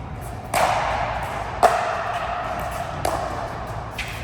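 Racket-sport rally: four sharp racket strikes about a second apart, each ringing on in a large echoing hall, the loudest about a second and a half in.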